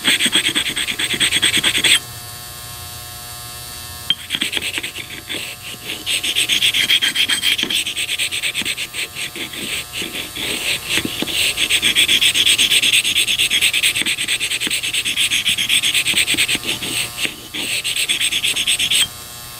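Corvair rocker arm rubbed rapidly back and forth on a sharpening stone, a steady rasping scrape of metal on stone as the step worn into its tip by the valve is ground flat. The scraping stops for about two seconds near the start, then runs on with a short break near the end.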